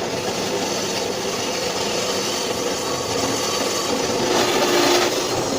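Electric metal-cutting saw running and cutting through an iron bar, a steady grinding saw noise that grows a little louder about four and a half seconds in.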